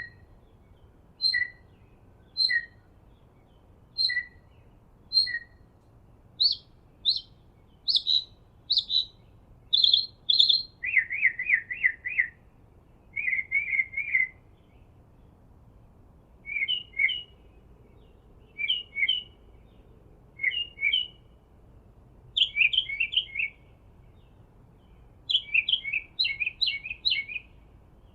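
A songbird singing a run of short phrases, repeating each a few times before switching to another: clear two-note calls, high then lower, then quick high notes, then fast lower trills and rapid chattering runs.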